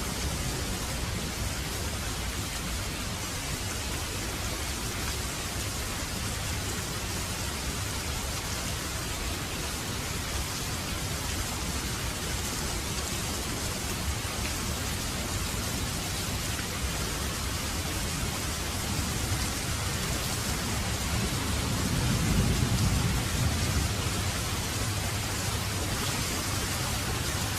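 Heavy rain falling steadily, with a low roll of thunder swelling and fading about three-quarters of the way through.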